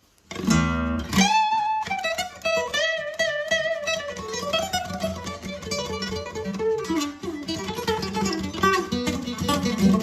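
Music with acoustic guitar, plucked and strummed, starting just after a brief break at the very beginning.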